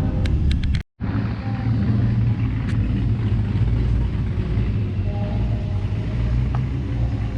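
A car engine idling with a steady low rumble. The sound cuts out for a split second just under a second in, then the rumble resumes.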